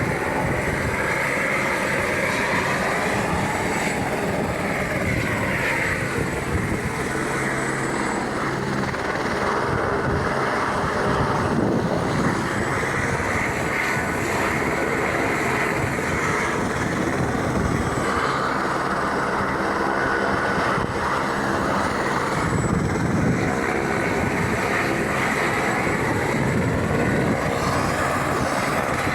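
Helicopter running close by: steady loud rotor and turbine noise, its pitch sliding slowly up and down several times as it moves.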